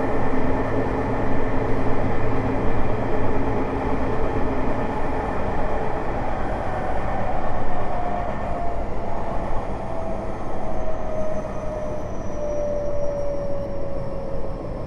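Onboard running sound of a Tokyo Metro 05 series train with Mitsubishi IGBT inverter drive: a steady rumble of wheels on rail, with the traction motor whine falling slowly in pitch through the second half as the train slows.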